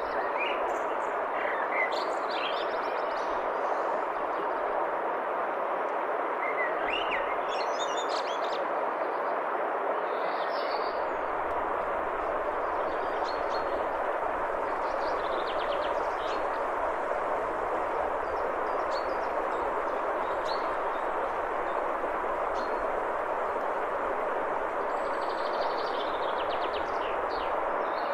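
Forest stream rushing steadily over rocks and small cascades, with birds chirping and calling now and then above the water.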